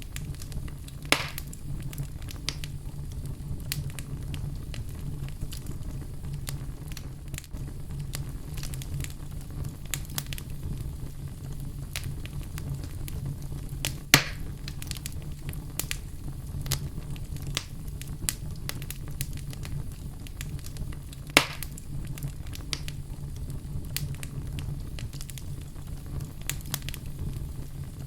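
Fire crackling in a fireplace: constant small crackles over a steady low rumble, with three sharper pops, about a second in, near the middle, and about three-quarters of the way through.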